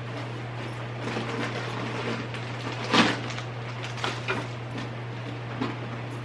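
Belongings being handled while unpacking: rustling and light clatter, with one sharp knock about three seconds in and a few lighter knocks after it. A steady low hum runs underneath.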